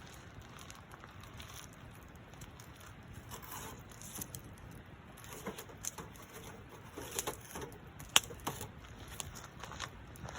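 Wood fire crackling, with irregular sharp pops and snaps that come thicker in the second half, the loudest snap about eight seconds in.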